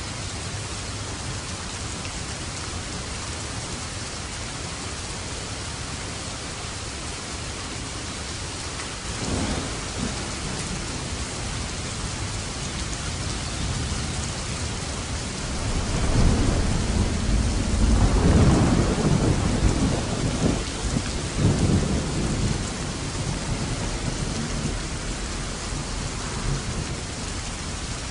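Steady rain falling, with a short low rumble of thunder about a third of the way in and a long, loud rumble of thunder building past the middle, peaking and then dying away.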